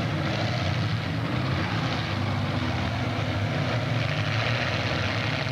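Demolition derby car engines running together, a loud steady engine din with no single impact standing out.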